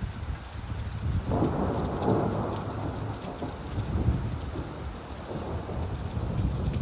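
Steady rain with a low rolling thunder rumble, which swells about a second in and rolls on underneath.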